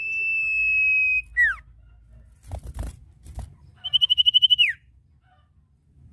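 Common iora (sirtu) calling. It holds a long, steady high whistle for about a second, then gives a short downward-slurred note. A few faint knocks follow, and then the loudest part: a fast rattling trill on one high pitch that ends in a falling slur.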